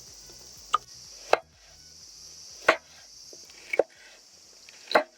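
A series of sharp knocks, five in all at uneven intervals, over a steady high hiss.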